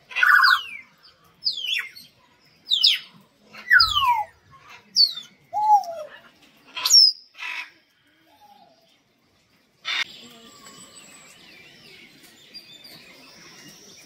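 A bird giving a run of loud whistled calls that slide down in pitch, about one a second, for some eight seconds. After a brief near-silent gap, a softer background of mixed bird chatter with wavering whistles.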